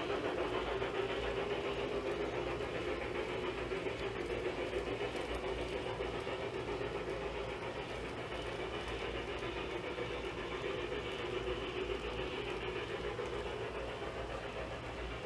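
LGB G-scale model locomotive running on a garden railroad, a steady running sound that slowly eases off a little.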